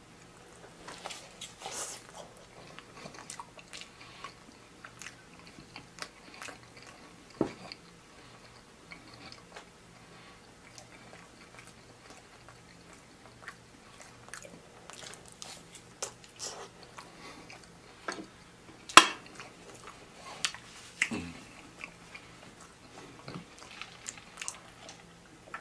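A person chewing and biting forkfuls of loaded fries topped with ranch, with wet mouth sounds and scattered small clicks. One sharp click about three quarters of the way through stands out as the loudest sound.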